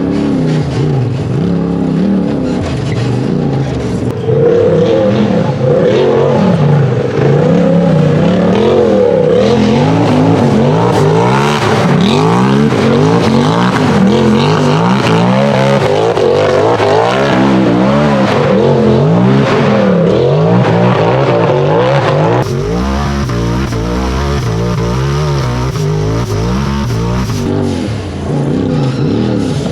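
Turbocharged UTV buggy engine revving hard under load, its pitch climbing and dropping every second or two as the throttle is worked on and off. About 22 seconds in it falls to a lower, steadier note.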